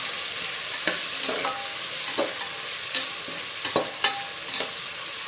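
Sliced onions and tomatoes sizzling in oil in an aluminium pressure cooker while a metal slotted ladle stirs them. A steady sizzle runs under irregular knocks and scrapes of the ladle against the pot, a couple of them ringing briefly.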